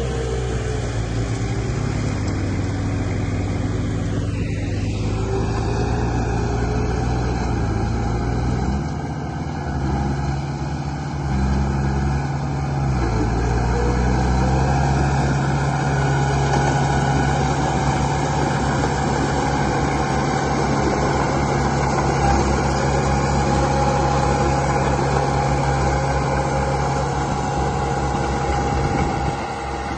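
Radio-controlled model construction vehicle running, with a steady engine-like drone whose pitch steps up and down and grows louder about a third of the way in.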